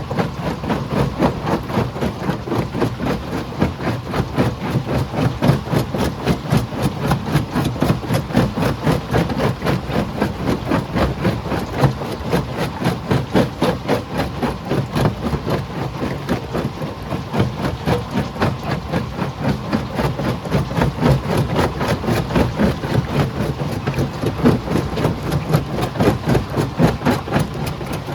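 Stone crusher machinery running: a heavy engine with rapid, even knocking several times a second.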